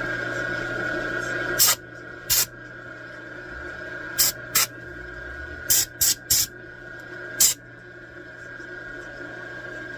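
Eight short, sharp hissing spurts of spray, at uneven intervals, over the steady hum of running shop machinery. The hum drops a little in level about two seconds in.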